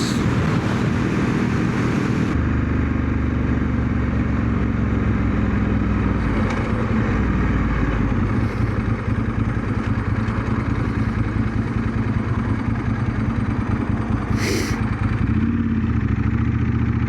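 1997 Ducati 916's 90-degree V-twin engine running steadily in sixth gear at road speed, with a brief sharp noise about fourteen and a half seconds in.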